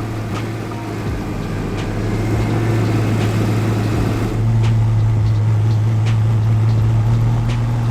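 Truck engine running steadily under a constant drone while driving through snow, growing louder about four seconds in.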